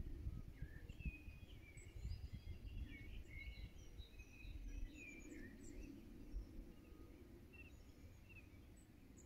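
Faint birdsong: many short chirps and trills, thinning out after about six seconds, over a low rumble of outdoor noise.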